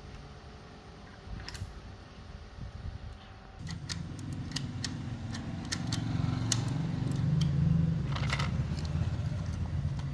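A low mechanical hum starts about three and a half seconds in and grows louder, with scattered sharp metallic clicks and taps over it.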